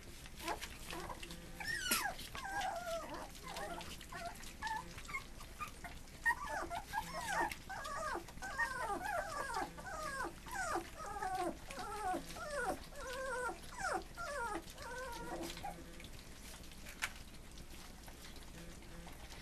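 Three-week-old whippet puppies whimpering and whining, a run of many short high cries that each slide down in pitch, thickest in the middle and dying away near the end.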